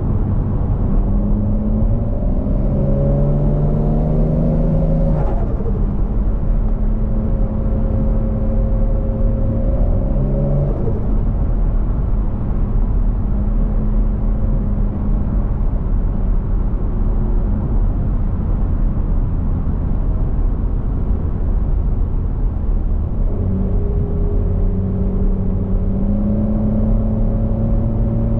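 Turbocharged 1JZ-GTE VVTi straight-six in a Scion FR-S pulling hard, its pitch climbing with a rising turbo whistle, then lifting off suddenly about five seconds in. It runs steadily through the middle, with another shift about ten seconds in, then climbs again and drops off near the end.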